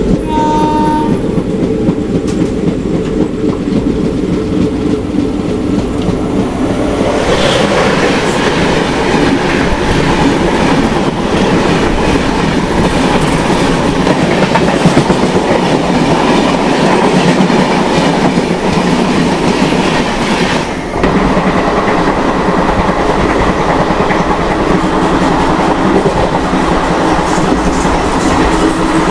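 Passenger express train running along the track: steady rumble and clatter of the wheels over the rails, growing louder about seven seconds in.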